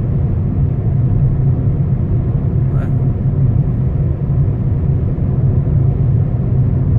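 Steady low road and engine drone heard from inside the cabin of a 2013 Ford Fiesta cruising on the highway, with a brief faint sound about three seconds in.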